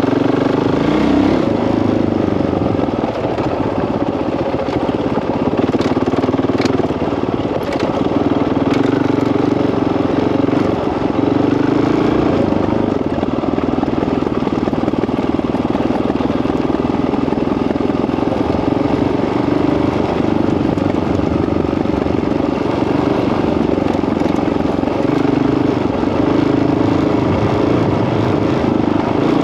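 Honda CRF single-cylinder four-stroke dirt bike engine running at a fairly steady pitch, with a few brief clicks about six to eight seconds in.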